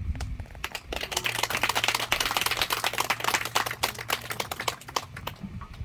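Audience clapping: a few scattered claps, then a dense round of applause about a second in that dies away near the end.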